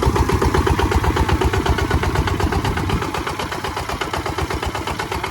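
Kubota ZT155 walking tractor's single-cylinder diesel engine running with even, rapid firing pulses; the heavy low thud eases off about halfway through.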